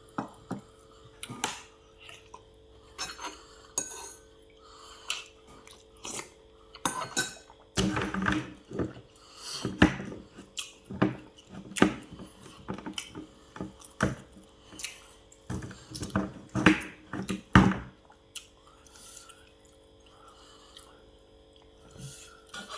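Cutlery clinking and knocking against plates and bowls during a meal, in a string of short sharp taps that is busiest and loudest through the middle.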